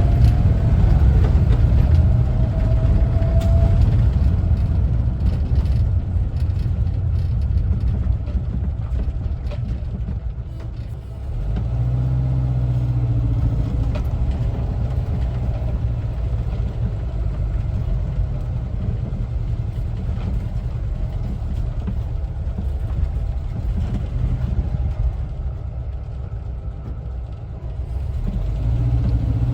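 1974 Volkswagen Westfalia camper's air-cooled Type 4 flat-four engine running under way, with road rumble. A faint rising whine in the first few seconds as it gathers speed, and a brief drop in level about a third of the way through.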